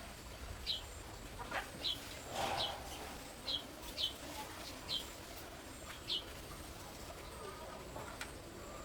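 A small bird chirping: about seven short, high, slightly falling chirps at uneven intervals over a faint background hiss.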